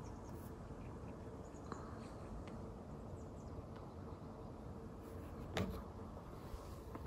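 Faint steady background hum with a few light clicks, one a little clearer about three-quarters of the way through.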